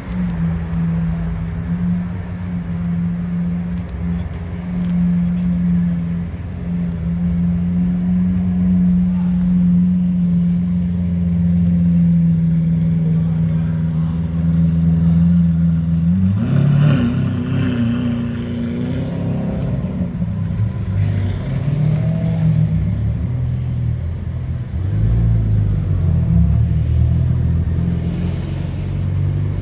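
Lamborghini Aventador's V12 idling steadily, then revved sharply once a little past halfway, followed by uneven engine running at lower revs.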